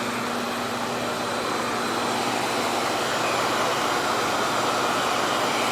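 RevAir reverse-air hair dryer running steadily, its suction unit drawing air and wet hair into the wand with a loud, even rush of air and a faint hum.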